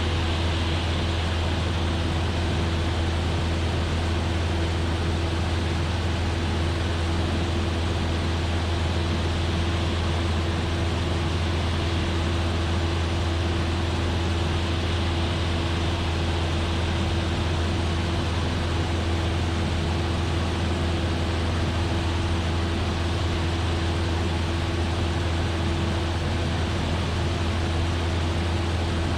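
Cessna 172F's Continental O-300 six-cylinder engine and propeller droning steadily at cruise power, heard inside the cabin with an even rush of air noise over a deep, constant hum.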